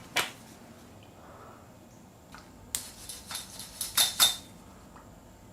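Light clicks and metallic clinks from handling a bicycle brake cable and lever while they are being lubricated: one click near the start, then a quick run of five or so clinks a little past halfway.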